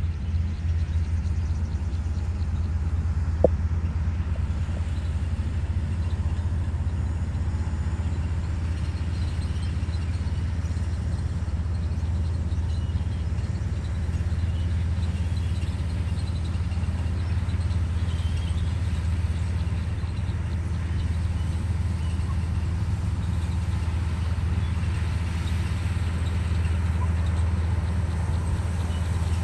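Komatsu D58E bulldozer's diesel engine running steadily as a low, even drone, with one sharp knock about three and a half seconds in.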